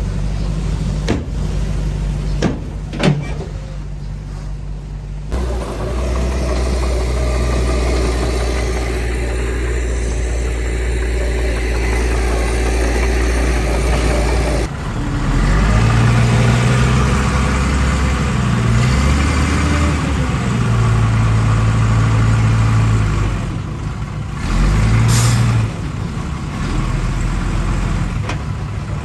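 Diesel engines of earthmoving machinery running under load, the engine note rising and falling from about halfway through, with a few sharp clicks near the start.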